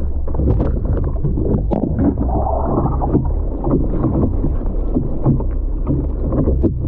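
Sea water sloshing and splashing in the surf: irregular splashes over a steady low rumble.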